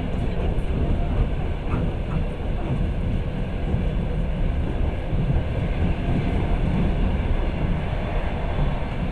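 Passenger train running along the line, a steady rumble of wheels on rails heard from inside the carriage.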